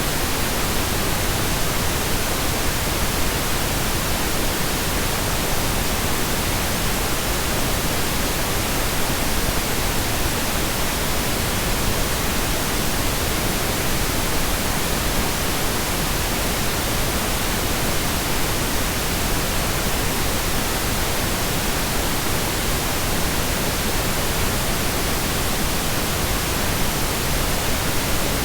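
Pink noise: a steady, even hiss spread across all pitches, with no change or events.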